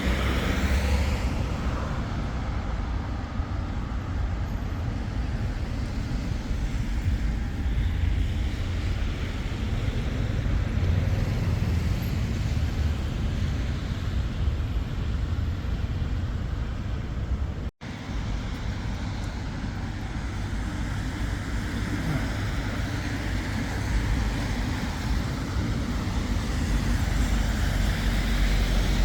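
Steady road traffic noise from cars, heaviest in the low rumble, with one momentary dropout about two-thirds of the way through.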